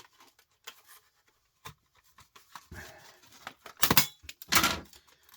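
A small portable DVD drive being broken apart: light clicks and rustling of its plastic and thin metal parts, then two loud cracking knocks about four and four and a half seconds in as the casing is forced open.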